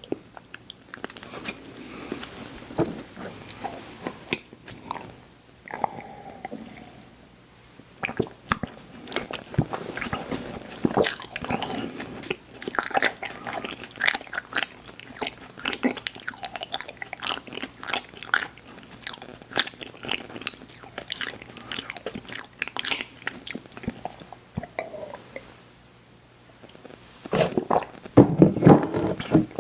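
Close-miked chewing and crunching of crisp cookies: dense, sharp crackles of bites and chews, with a louder stretch near the end.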